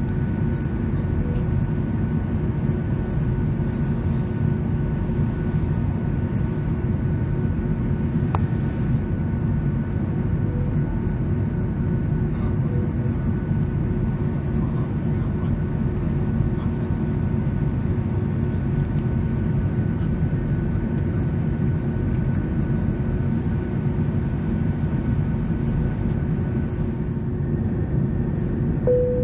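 Steady cabin noise inside an Airbus A321-200 taxiing after landing: the engines and air system run evenly, heavy in the low end, with a few faint steady tones over it.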